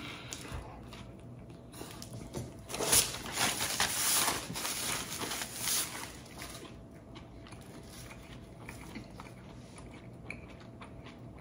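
Close-up chewing of a crusty baguette sandwich. From about three to six and a half seconds in there is a louder stretch of paper rustling as a tissue is handled, then quieter chewing.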